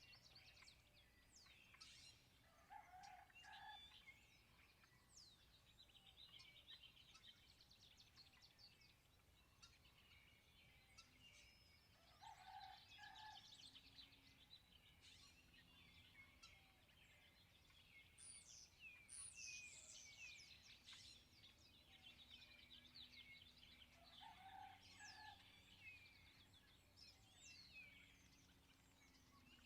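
A faint chorus of small songbirds chirping and trilling, with a lower two-note call repeated three times, about ten seconds apart.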